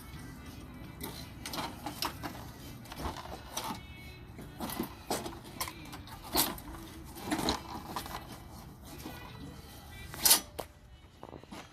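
Irregular clicks and clanks of hand tools and metal and plastic parts being handled while a snowblower is taken apart to reach the carburetor, with one loud clank about ten seconds in.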